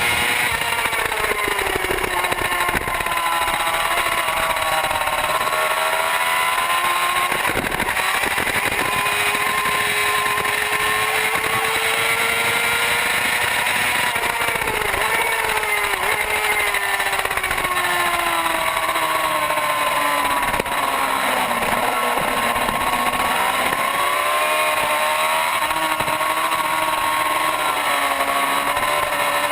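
Superbike engine running hard at racing speed. Its pitch climbs through the gears and drops back under braking several times, with deep dips around the middle and two-thirds of the way through.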